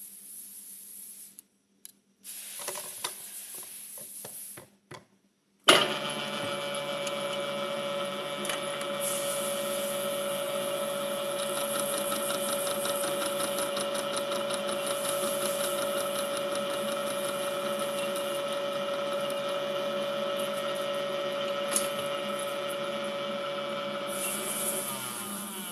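Milling machine running while milling small jaws for endosurgical instruments: a steady mechanical sound with a steady whine that starts suddenly several seconds in and holds, easing off slightly just before the end.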